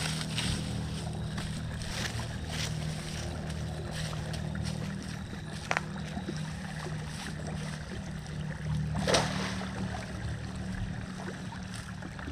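A steady low motor-like hum under a wash of moving water, with a sharp click about six seconds in and a brief louder rush about nine seconds in.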